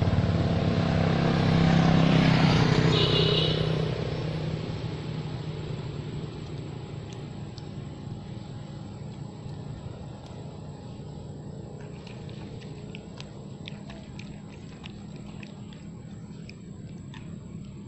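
A motor vehicle's engine passing by, loudest in the first few seconds and then fading away, leaving a low steady hum with faint scattered ticks.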